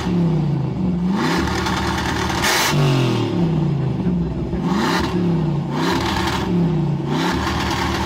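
Car engine revving again and again, its pitch dipping and climbing about once a second, with loud stretches of rasping exhaust noise, the loudest about two and a half seconds in.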